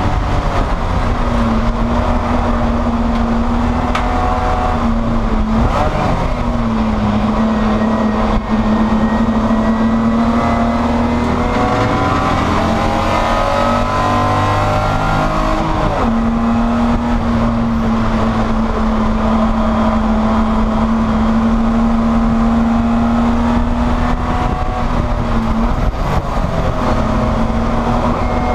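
Spec E30 BMW race car's inline-six engine heard from inside the cabin, running hard at a steady high pitch. The note breaks briefly about six seconds in, climbs between about twelve and sixteen seconds before changing suddenly, and breaks again near the end.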